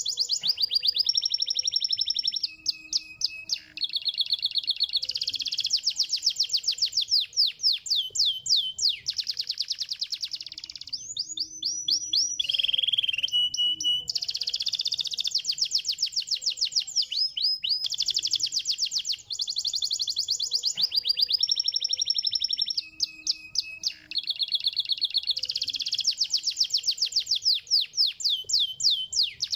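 Domestic canary singing a long, fast song made of rapid trills and rolls, each phrase a quick run of repeated notes that switches to a new pattern every second or two, with only short breaks.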